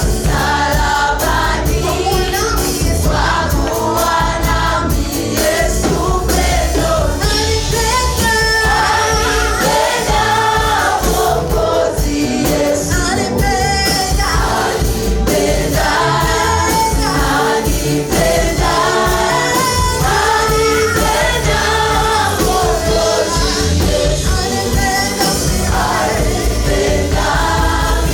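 A choir singing a gospel praise song with amplified instrumental accompaniment and a steady low bass.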